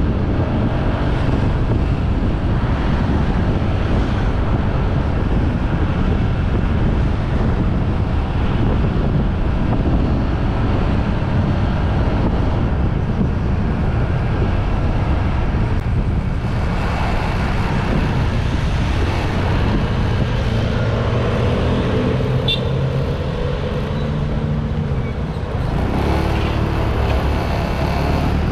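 Motorbike riding along a road: steady wind rush on the microphone mixed with engine and tyre noise, with clearer steady engine tones in the second half.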